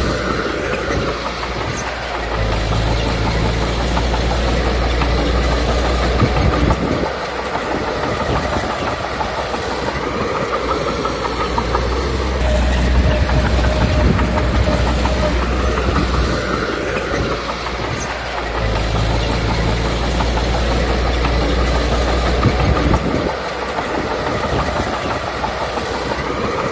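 Komatsu D21P bulldozer's diesel engine running with its steel tracks clanking, the low engine rumble swelling and easing every several seconds as the machine works.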